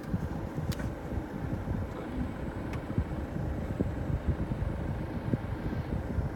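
Dust-storm wind buffeting the microphone: a gusty, uneven low rumble of wind noise with no steady engine pitch.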